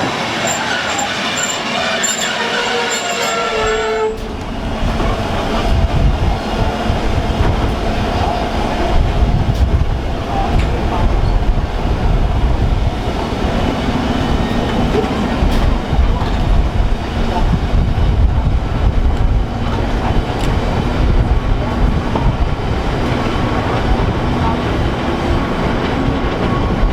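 Rhaetian Railway train running on the narrow-gauge Bernina line: a held tone at several pitches over the train for the first four seconds, then a loud, steady rumble of the train on the rails.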